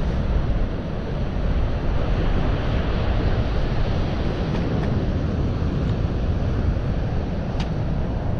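Strong wind buffeting the microphone over the steady rush of rough surf.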